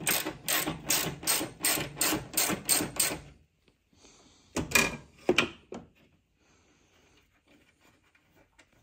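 3/8-inch drive ratchet with a 10 mm deep-well socket clicking steadily, about three clicks a second, as it backs out a bolt; the clicking stops after about three seconds. A couple of sharp knocks and a short clatter follow.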